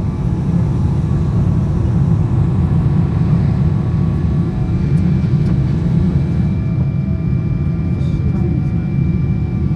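Boeing 777-200 cabin noise: a steady, heavy rumble of the jet engines and airflow, with faint thin whining tones above it. One tone drops in pitch briefly about eight seconds in.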